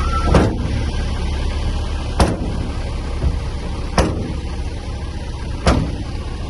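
Heavy diesel engine running steadily, with four sharp knocks at even intervals of a little under two seconds.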